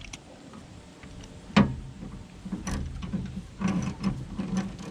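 Metal hand tools working on an engine: one sharp knock about a second and a half in, then short bursts of rapid clicking and clattering.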